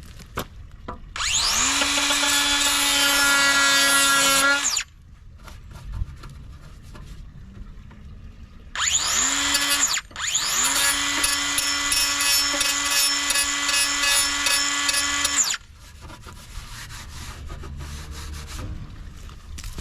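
Electric drill-type power tool running in three bursts, spinning up in pitch at each start: a run of about three and a half seconds, a brief one of about a second, then about five seconds at steady speed.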